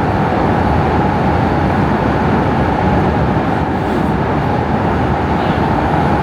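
Prague metro line A train running at speed in a tunnel, heard inside the car: a loud, steady rumble of wheels on rail with a steady whine running through it.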